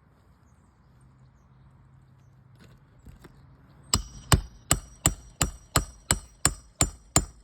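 A hammer driving a roofing nail into a replacement asphalt shingle: about eleven quick, sharp strikes with a metallic ring, nearly three a second, starting about four seconds in.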